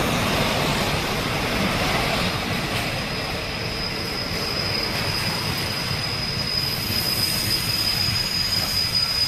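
Passenger train coaches rolling past close by: a continuous rumbling rolling noise from the wheels on the rails, with a steady high whine joining about three seconds in.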